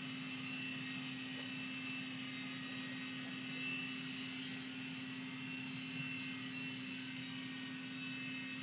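Blade mCX2 micro coaxial RC helicopter flying, its small electric motors and rotors giving a steady whirring hum with a high whine.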